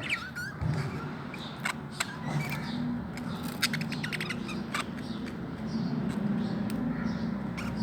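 Budgerigar chicks making short, squeaky chirps, with scattered sharp clicks and scratching.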